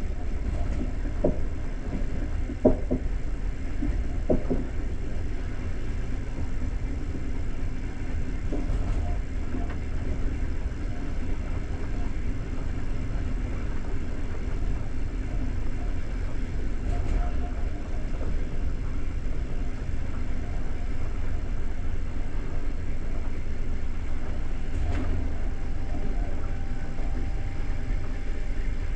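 Steady low rumble of a passenger train coach running along the track, heard from inside the carriage, with a few sharp knocks in the first five seconds.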